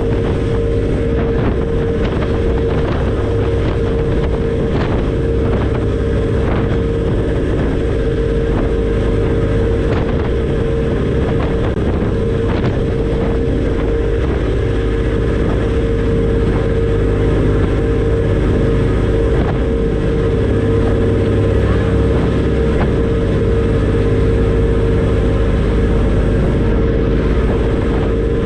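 Passenger ferry's engines running steadily underway: a continuous low rumble with a steady droning tone over it and scattered faint ticks.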